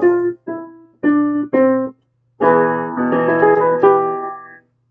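Piano keyboard playing chords: a few short chords in the first two seconds, then a fuller chord held and fading out.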